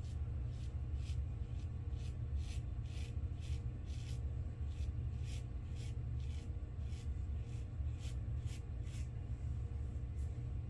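A razor scraping stubble on a lathered face in short, quick strokes, about two a second, against the grain on a cleanup pass; the strokes stop about nine seconds in. A steady low hum runs underneath.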